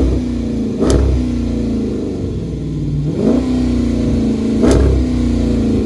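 Dodge Challenger engine revved in several short throttle blips, each one falling back toward idle before the next.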